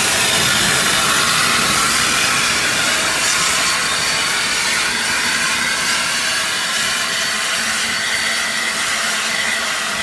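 BR Standard Class 8 steam locomotive 71000 Duke of Gloucester standing and venting steam in a loud, steady hiss.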